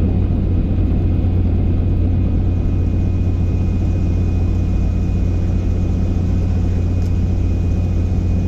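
Helicopter engine and rotor running steadily: a loud, even low drone with a thin, steady high whine over it.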